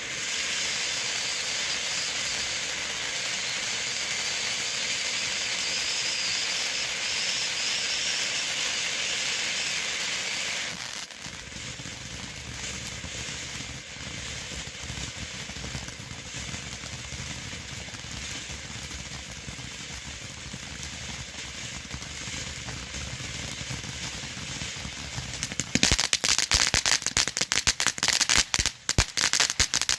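Phantom Fireworks Komodo 3000 fountain burning: a steady loud hissing spray of sparks for about the first ten seconds. The hiss then drops to a quieter crackle, and about four seconds before the end it breaks into dense, loud crackling pops.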